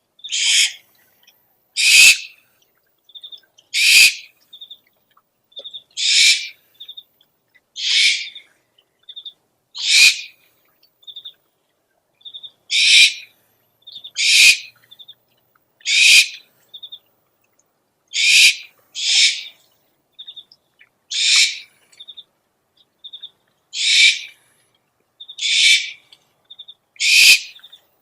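Owl calls: a harsh, hissing screech repeated about every two seconds, with short soft chirping notes in twos and threes between the screeches.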